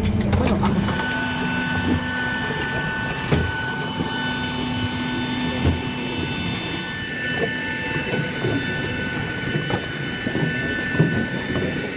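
Cabin noise of a Boeing 737-800 on the ground after landing: the CFM56 jet engines whine steadily at idle over a low rumble, with a few short knocks and bumps from the airframe.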